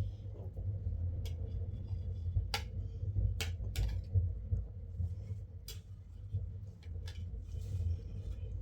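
Several irregular sharp clicks and taps, about six spread across a few seconds, over a steady low hum.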